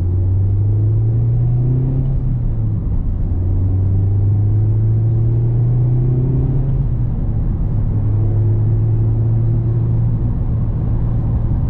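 Mazda MX-5 Miata's four-cylinder engine heard from the cabin, pulling under acceleration through the manual gearbox. Its pitch climbs, falls at upshifts about two seconds in and again about seven seconds in, then holds steady at a cruise.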